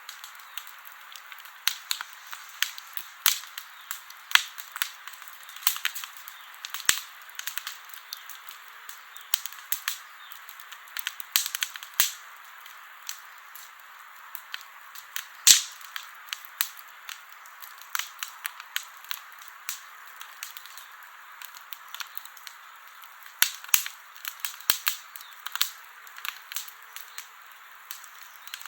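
Wood campfire crackling: irregular sharp pops and snaps over a steady soft hiss, with one louder pop about halfway through.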